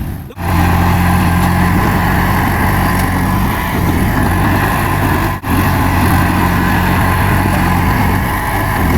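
Heavy diesel engine of earthmoving machinery running steadily and loudly. It breaks off for a moment twice, near the start and about halfway through.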